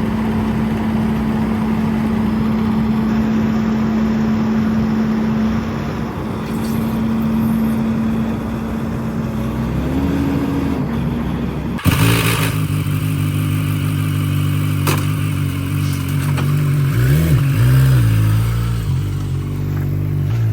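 Skid steer engine running steadily, then, after a sudden change about twelve seconds in, a lower engine note that revs up and settles briefly a few seconds later.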